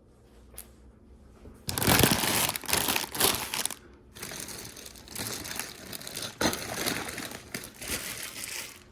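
Plastic LEGO parts bags crinkling as they are rummaged through in search of a piece. It starts about two seconds in and goes on in uneven handfuls, with a short pause in the middle.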